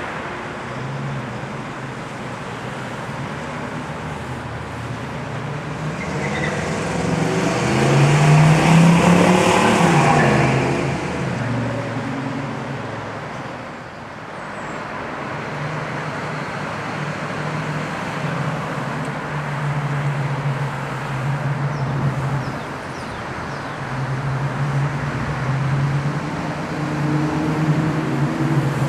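1971 Camaro Z28's 350 V8 engine and road noise while driving. The engine note swells to its loudest under acceleration about eight to ten seconds in, eases off around fourteen seconds, then pulls steadily and rises again near the end.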